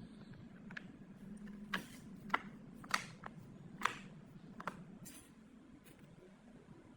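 Half a dozen sharp clicks and knocks at uneven intervals, over a faint steady low hum.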